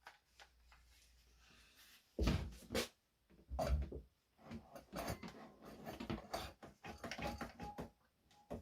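Irregular knocks and scrapes of the wooden cabinet's parts being handled, with a short squeak near the end.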